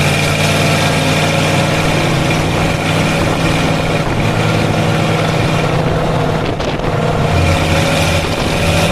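Vintage tow truck's engine running at a steady speed.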